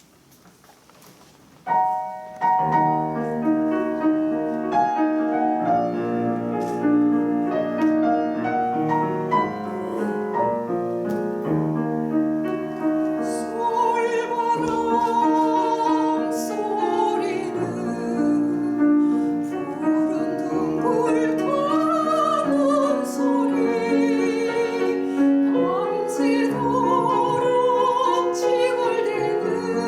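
Piano starts an art-song introduction about two seconds in, and a soprano enters about halfway through, singing with vibrato over the piano accompaniment.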